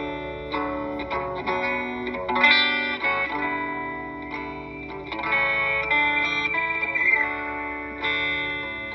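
Instrumental intro of a gospel quartet song: electric guitar playing sustained chords through an effects unit, changing chord every second or two over a low bass.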